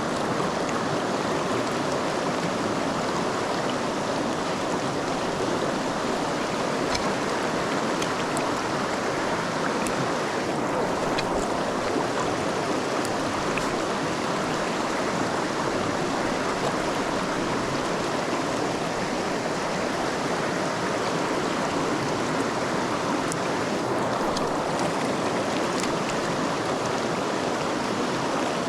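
Small creek running over rocks, a steady rush of water close by.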